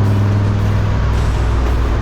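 Turbocharged 6-liter V8 in a Chevrolet C10 pickup droning steadily while cruising at about 50 mph. About a second in, the engine note drops lower.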